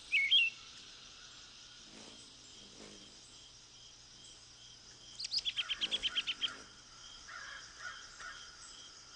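Outdoor birdsong. There are a few short chirps at the start, then a rapid rattling run of harsh bird calls about five seconds in, followed by softer calls. Faint, regular insect chirping runs underneath.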